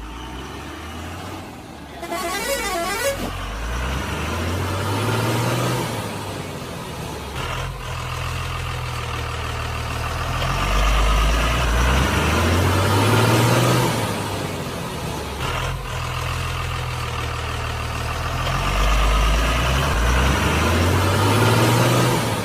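Vehicle engine sounds rising and falling in a cycle that repeats about every eight seconds, with a brief horn-like sound about two seconds in.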